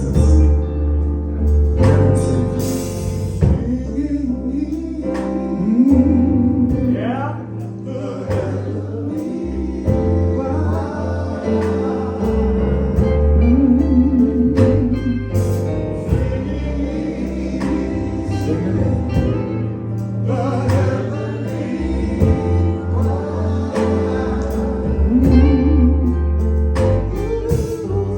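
Gospel invitation hymn sung with a wavering, vibrato-laden voice over an instrumental backing with a strong bass line and a steady beat.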